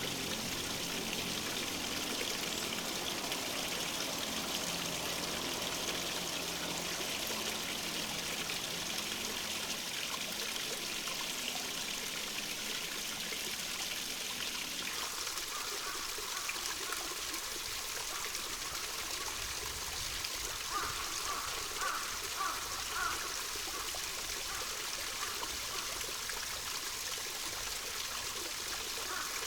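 Small stream trickling and splashing steadily. The deeper part of the water sound drops away about halfway through, and a few short, slightly louder sounds come a little after two-thirds of the way in.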